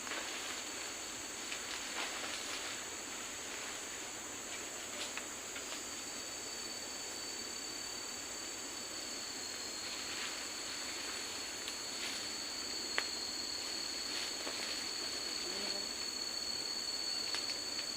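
Forest insects droning steadily at a high pitch over an even hiss. A second thin, high, steady insect tone joins about six seconds in, with a few faint small clicks scattered through.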